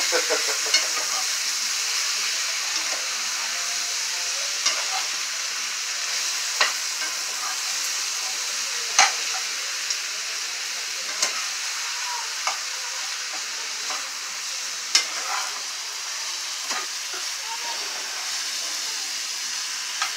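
Chicken and ackee frying in oil in a frying pan, sizzling steadily while a spoon stirs it. Irregular sharp clicks and scrapes come from the spoon against the pan.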